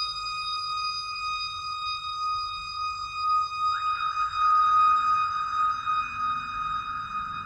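Analog synthesizer drone through a reverb pedal: a steady high tone with several overtones. A quick upward pitch sweep comes a little under four seconds in, followed by a hissy, noisy wash around the tone.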